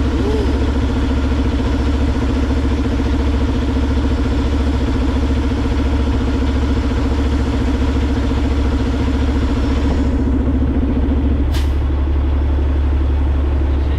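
Semi-truck diesel engine and road noise, a steady low drone heard from inside the cab while driving. About eleven seconds in the engine's pitched tone drops away, and there is one sharp click.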